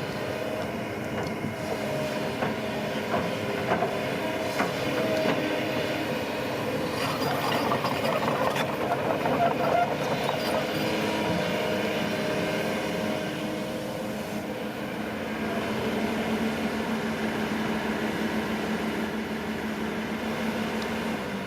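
Tracked heavy construction machinery running: a steady diesel engine note with scattered clicks and knocks, busiest around the middle.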